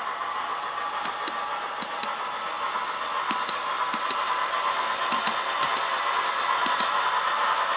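ESU LokSound decoder in an HO-scale EF210 electric locomotive model playing its running sound through the model's small speaker: a steady electric hum and whir centred near 1 kHz, growing slightly louder. Sharp ticks, often in pairs, sound every second or so as the wheels cross track joints.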